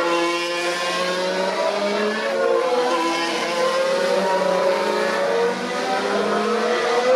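Several 2019 Formula 1 cars' turbocharged 1.6-litre V6 hybrid engines running together, their pitches rising and falling as the cars accelerate and shift.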